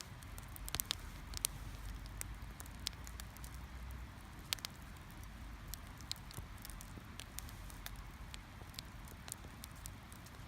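Wood fire crackling in a fire pit: irregular sharp pops and snaps, a few louder ones, over a steady low rumble.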